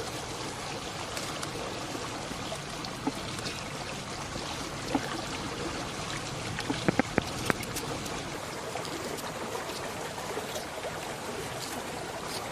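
Water flowing steadily, like a stream or channel, with a few sharp knocks; a quick cluster of them comes about seven seconds in.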